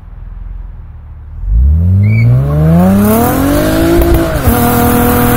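Honda Accord's V6, running on E85 with an automatic gearbox, accelerating hard: after a low rumble the revs climb steadily for about two and a half seconds, drop sharply at an upshift, then hold high as the car keeps pulling. A high hiss rises once the car is moving.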